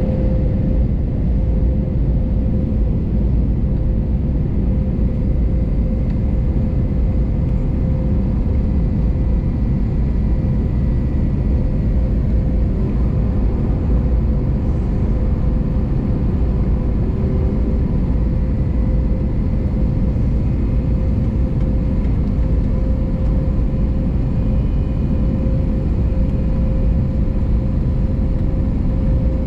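Steady cabin noise of an Airbus A321neo in flight on approach: a loud, even rumble of engines and airflow with a constant hum running through it.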